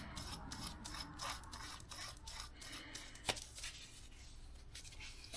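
Faint, quick rasping strokes of metal on metal as a threaded part is turned and tightened on a motorcycle front fork, fading out after about three and a half seconds, with one sharp click about three seconds in.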